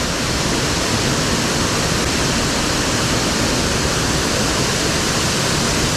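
Waterfall pouring into a mountain-stream plunge pool: a loud, steady rush of water.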